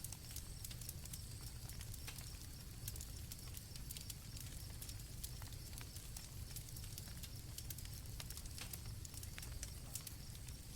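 Campfire crackling with scattered sharp pops, with crickets chirring faintly and steadily in the background.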